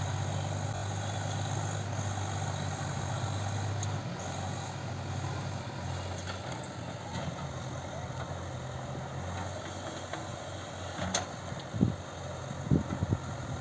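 A diesel tractor engine running steadily, a little louder for the first four seconds, with a few short thumps near the end.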